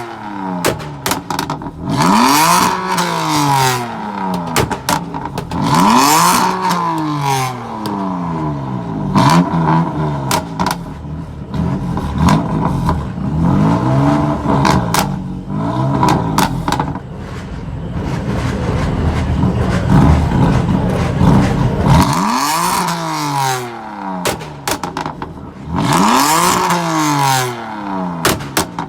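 BMW M3/M4 exhaust as the engine is revved hard about six times, the pitch rising to a peak and falling back each time, with sharp pops and crackles from the exhaust, densest between revs.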